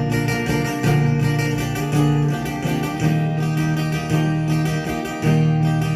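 Instrumental break of a folk song, led by a strummed acoustic guitar, with bass notes changing about once a second.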